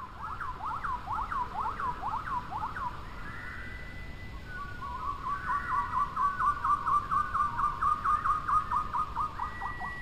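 A bird whistling fast runs of short downward-sliding notes, about three or four a second, one run at the start and a louder one from about halfway in, over a steady rush of flowing river water.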